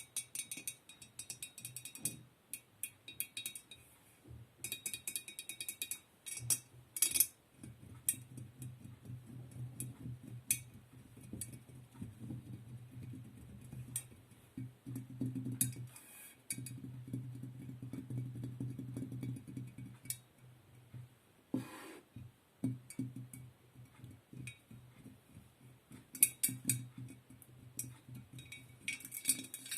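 ASMR trigger sounds: quick runs of light tapping and clinking on small hard objects, close to the microphone, over a low steady hum.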